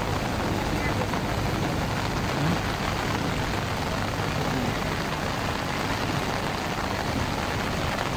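Strong wind buffeting the microphone in a storm: a steady, low rumbling noise with no breaks.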